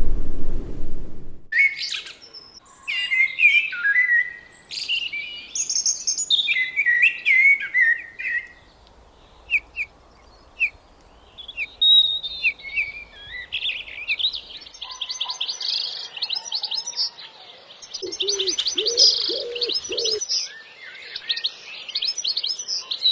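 Several wild birds singing and calling, with varied chirps, trills and rapid notes, and a few lower calls around eighteen to twenty seconds in. A loud low rumble cuts off about a second and a half in.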